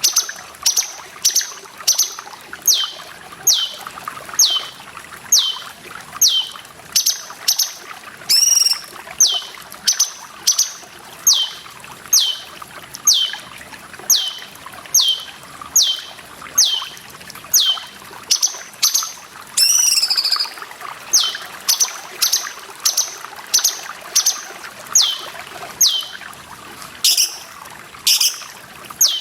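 Cucak cungkok calling over and over: a sharp downward-sweeping whistle about three times every two seconds, with a couple of different warbled notes about eight and twenty seconds in. Steady trickling water runs underneath.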